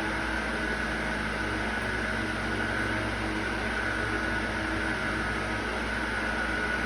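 A steady machine hum and hiss with a constant high whine, unchanging throughout.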